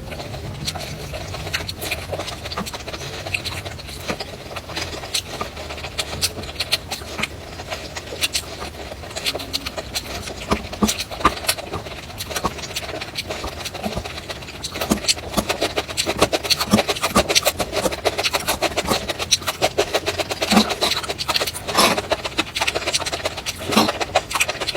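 Eating: close, rapid crunching and chewing of food in quick irregular clicks, getting louder and busier about two-thirds of the way through.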